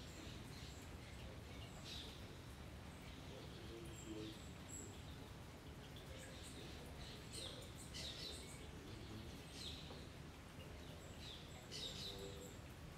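Birds chirping: short, high calls that drop in pitch, coming every second or two, over a faint steady low background rumble.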